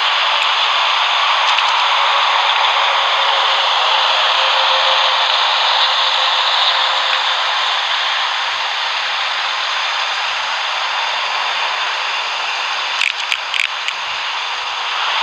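Boeing 737-800's CFM56 turbofan engines at takeoff power, a steady, loud jet roar with a faint tone that sags slightly in pitch. A few short clicks come near the end.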